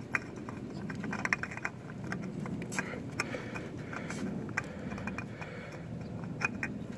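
Light, irregular clicks and scrapes of a spin-on oil filter being threaded onto a motorcycle engine by hand, over a low steady background rumble.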